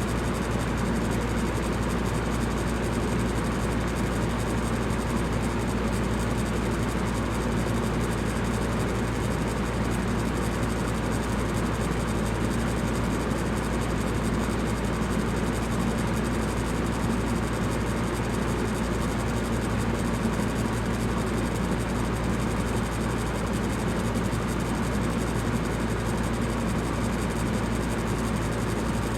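Electric fan running steadily: an even whooshing hiss of moving air over a low motor hum, unchanging throughout.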